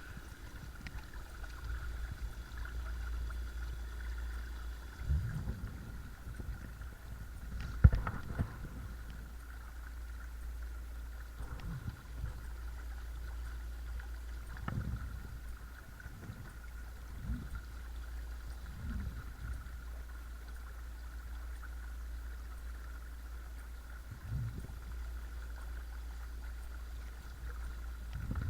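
Watersnake T24 12-volt electric trolling motor running steadily on a kayak, a constant high hum over water moving past the hull. Several soft low thumps come through, with one sharp knock about eight seconds in.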